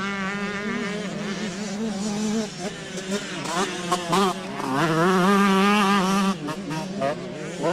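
Several motocross motorcycle engines racing, revving up and down as the riders work the throttle and shift, with pitch rising and falling and the loudest stretch about five seconds in.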